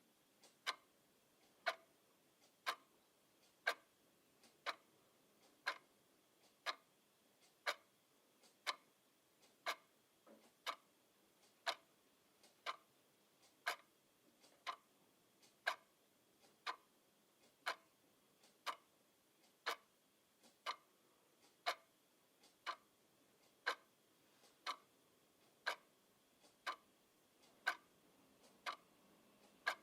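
A clock ticking steadily, about one sharp tick a second, with a fainter click between some of the ticks.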